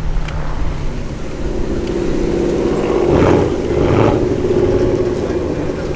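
A motor vehicle's engine running steadily, with two short swells in loudness around the middle.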